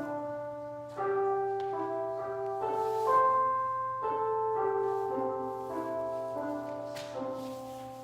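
Slow instrumental keyboard music: held chords that change about once a second, fading down near the end, over a steady low hum.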